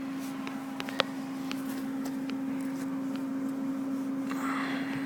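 1964 VW Beetle air-cooled flat-four engine idling with a steady hum, with scattered light ticks and one sharp click about a second in.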